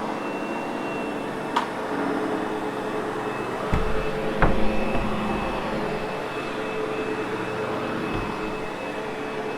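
Sebo X8 upright vacuum running steadily over carpet with a constant whine, with a sharp click about a second and a half in and a few low thumps around four seconds in.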